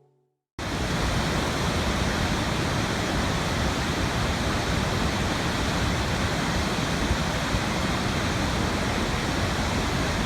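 Steady rushing water, like a waterfall, that starts suddenly about half a second in and cuts off abruptly at the end.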